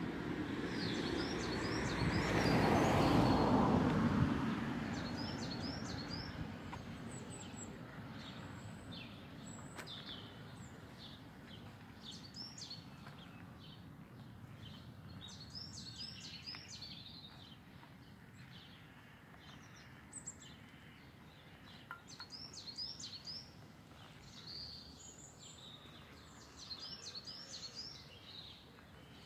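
Small songbirds chirping and singing in repeated quick runs of high notes, with outdoor background hum. In the first few seconds a broad rush of noise swells and fades, the loudest sound here.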